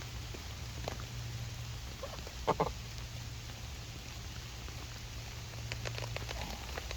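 Steady rain falling, with a few brief sounds on top, the clearest a quick pair of short pitched notes about two and a half seconds in.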